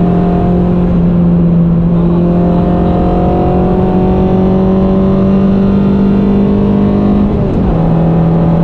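Peugeot 106 Quicksilver's engine under hard acceleration, heard from inside the cabin, its revs climbing slowly and steadily. About seven seconds in the revs drop sharply with a gear change and settle lower.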